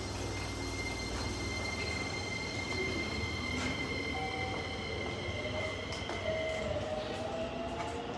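Keisei electric train moving through the station, with a steady high whine over the running noise and a motor tone that rises in pitch through the second half as the train speeds up.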